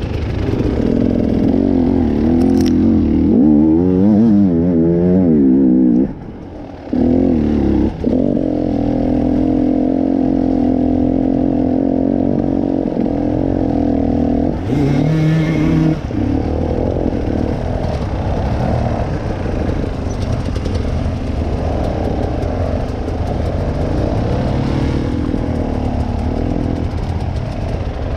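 Dirt bike engine running on a trail ride, its pitch rising and falling with the throttle, dropping away for about a second around six seconds in before picking up again.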